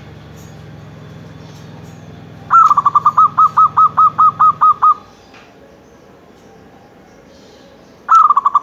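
Zebra dove (perkutut) cooing: a quick run of about a dozen evenly spaced staccato coos, then a second run starting near the end. A steady low hum sits underneath and stops about halfway through.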